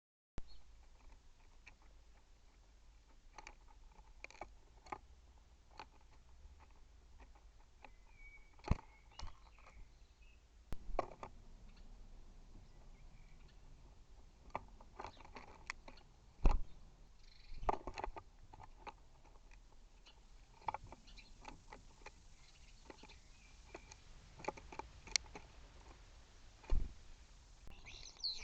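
Birds at a feeder: irregular sharp taps and knocks from pecking and landing close to the feeder camera's built-in microphone, over a faint low hum.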